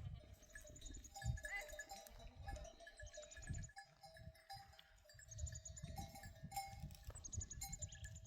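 Livestock bells clinking on and off against gusty wind rumble, with bursts of high, rapid chirping.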